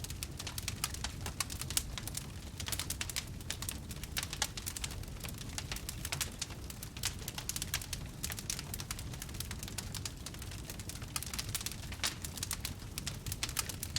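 Wood fire crackling steadily, with many quick irregular pops and snaps over a low, even rumble of burning.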